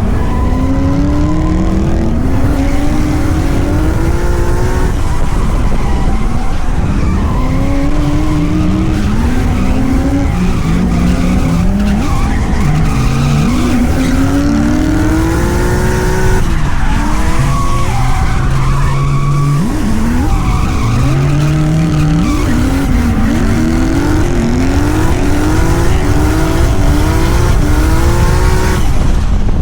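A 2JZ-GTE turbocharged straight-six in a drift car being revved hard again and again, its pitch rising and falling, with tyres squealing and skidding through the slides. Near the end the revs come in quicker, shorter bursts.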